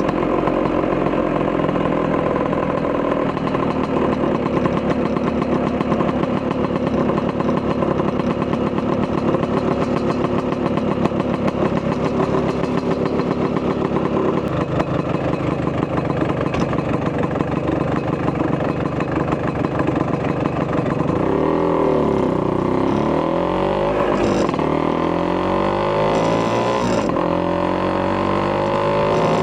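Vespa PX200's two-stroke single-cylinder engine with a Polini 210cc kit and Malossi expansion-chamber exhaust, running under way at fairly steady revs. From about two-thirds of the way through, the revs repeatedly fall and climb again.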